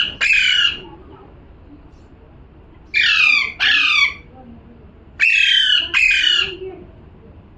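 Pet parrot squawking: harsh calls falling in pitch, given in pairs, a pair about every two and a half seconds.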